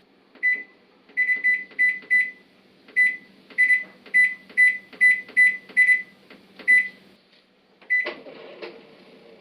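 Panasonic NA-FA100H3 washing machine's control panel beeping as its buttons are pressed: about a dozen short single-pitch beeps, each with a light click of the key. About eight seconds in comes a louder click and a short rumble from the machine.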